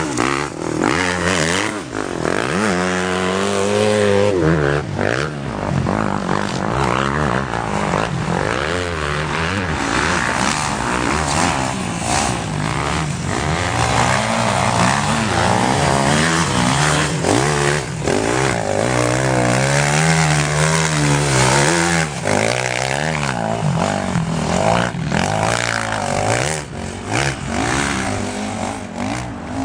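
Motocross bike engines revving on the track, their pitch rising and falling with throttle and gear changes, several bikes overlapping at different pitches.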